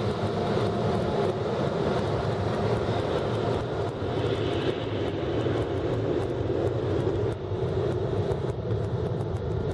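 An automatic car wash's dryer blowers running, a steady rush of air heard from inside the car's cabin during the drying stage.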